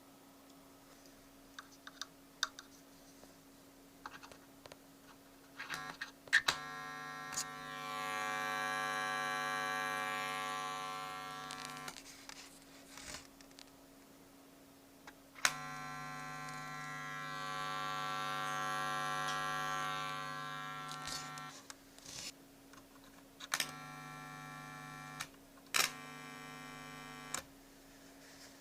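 Stereo amplifier under repair giving out a loud electrical buzz, which swells up and fades away twice, each time for about five seconds, then comes twice more in shorter spells. Sharp clicks fall between the buzzes, over a faint steady hum.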